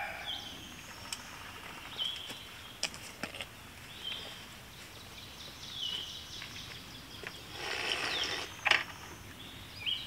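Outdoor ambience with a bird repeating a short, high, falling call every second or two, with scattered light clicks and a brief rustle near the end.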